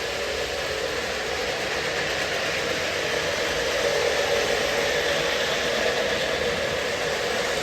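Two Lionel Lion Chief O scale Dash 8 model diesel locomotives running with a tank car train: a steady noisy sound of onboard diesel engine sound effects and wheels rolling on the track, a little louder from about four seconds in.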